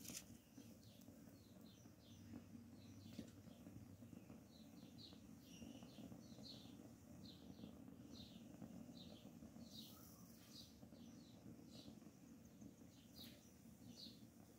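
Near silence with a faint outdoor background: a bird chirping over and over in short high chirps, about two a second.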